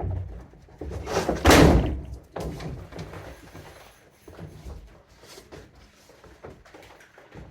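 Sheets of plywood sheathing being handled: a few knocks and one loud thud with a scrape about a second and a half in, then lighter knocks.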